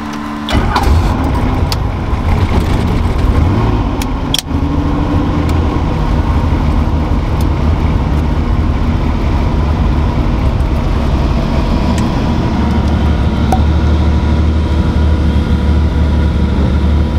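Helicopter engine and rotor running, a loud steady rumble that comes in abruptly about half a second in.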